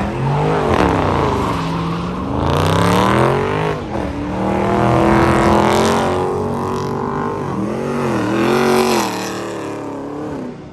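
High-powered car engine revving hard, its pitch climbing and falling several times and holding high for a few seconds in the middle before it falls away at the end.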